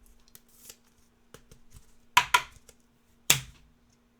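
Trading cards being handled and flipped through by hand: faint ticks and rustles, with three sharp card snaps, two close together a little past the middle and one about a second later.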